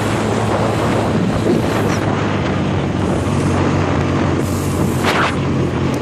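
Four-wheeler (ATV) engine running steadily under heavy wind buffeting on the microphone, with a brief gusty rush about five seconds in.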